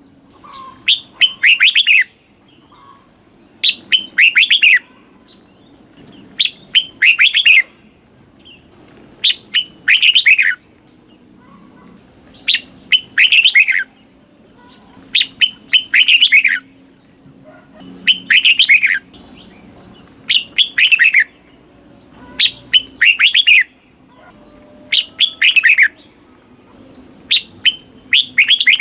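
Red-whiskered bulbul singing: loud, short phrases of quick notes that fall in pitch, repeated about every two and a half seconds.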